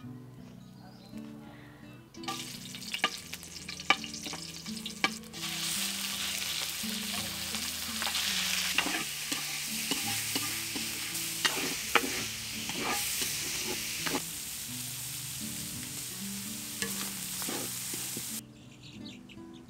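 Pieces of pork frying in a steel wok, sizzling, with utensils tapping and clacking against the wok as they are stirred. A few taps over a softer sizzle come first; the sizzling turns loud about five seconds in and cuts off suddenly near the end.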